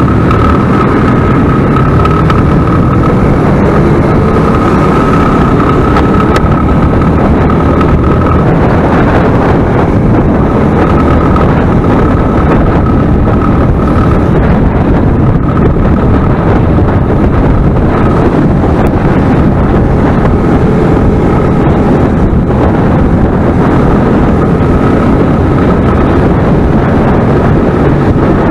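Motorcycle engines running on the move, with wind buffeting the microphone in a loud, steady rush.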